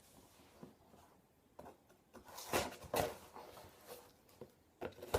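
Handling noise from a shipping package being opened: a few sharp clicks and several short bursts of rustling, loudest a little after two seconds in.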